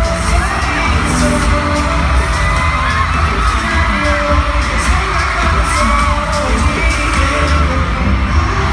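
Live K-pop music played loud through concert speakers, with a heavy bass beat and singing voices over a constant crowd.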